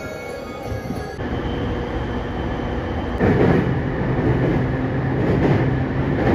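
Train running: a steady rumble with a low hum that grows louder about three seconds in. A few steady tones sound in the first second and stop.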